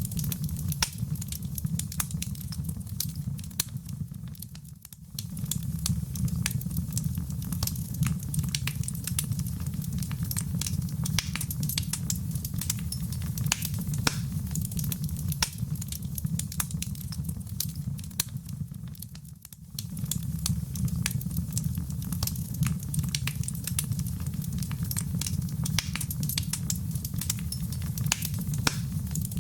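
Wood fire in a fireplace crackling: dense sharp pops and snaps over a steady low rumble of flame. The sound fades briefly twice, about five and nineteen seconds in.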